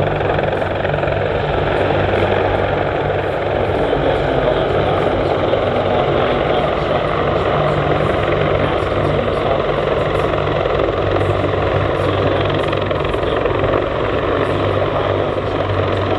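MH-53E Sea Dragon heavy helicopter in flight: three turboshaft engines and a seven-blade main rotor making a loud, steady roar with a low rotor throb underneath.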